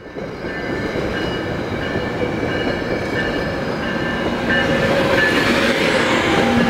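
Amtrak ACS-64 electric locomotive hauling Amfleet coaches as it leaves the station and passes close by: a steady rumble of wheels on rail with thin, high steady tones over it, growing louder about five seconds in as the locomotive comes alongside.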